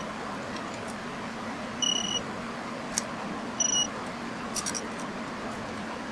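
An electronic beeper sounds a short, high beep about every two seconds over a steady background hum. A sharp click comes about halfway through, and a few small clicks follow shortly after.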